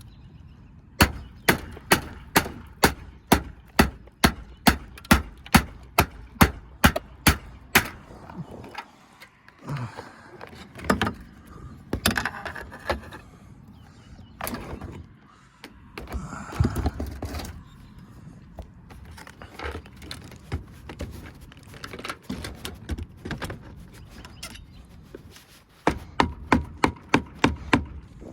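Hammer striking old rotted wood at a garage roof edge: a fast run of about twenty blows, about three a second, then scattered knocks and scraping as the wood is worked loose, and another quick run of blows near the end.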